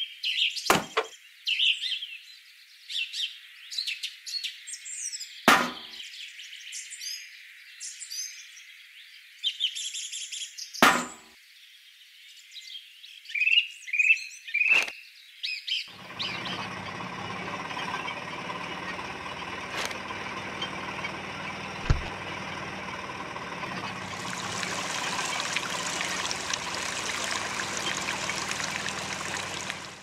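Birds chirping, with a few sharp knocks, through the first half. About halfway through, a small electric motor starts and runs steadily, driving a miniature belt-driven juicing machine fed with oranges; the running gets hissier for the last few seconds, with a single thump partway through.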